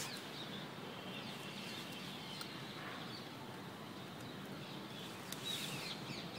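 Birds chirping faintly in the background over a steady low hiss, with a brief rustle near the end.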